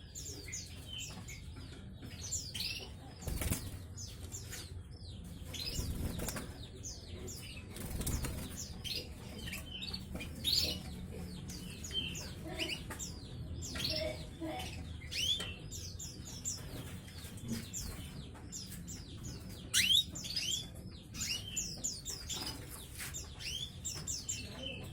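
A group of canaries chirping and singing together in many overlapping quick twittering notes, with a few short flutters of wings about 3, 6 and 8 seconds in.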